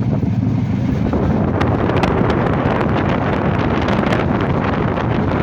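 Bonolota Express passenger train running: a steady low rumble and rush of wind on the microphone, with rapid clicking and rattling from about a second and a half in.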